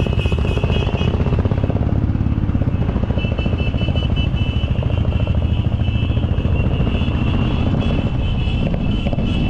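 Royal Enfield motorcycle engine running steadily, a continuous low exhaust beat.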